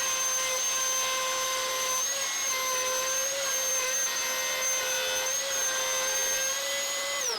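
Router in a router table running steadily at full speed with a bearing-guided straight bit, trimming a wooden body flush to an MDF template. It is switched off near the end and its pitch falls as it spins down.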